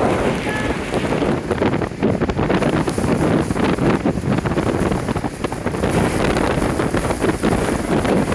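Strong gale-force wind buffeting the microphone with a heavy rumble, over Lake Michigan storm surf breaking on the shore.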